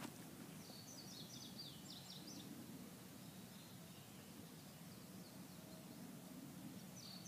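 Near silence with a faint steady background, broken by a small bird's short phrase of quick, high chirping notes about half a second in and again near the end.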